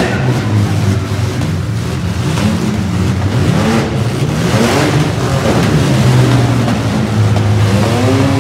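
Several demolition derby cars' engines running hard in low gear and revving up and down, their pitches rising and falling over one another. There is a brief louder burst of noise about four and a half seconds in.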